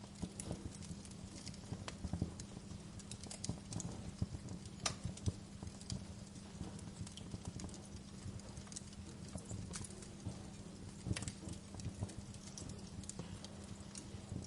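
Wood fire crackling in a fireplace: irregular sharp pops and snaps, a few louder ones scattered through, over a steady low hum.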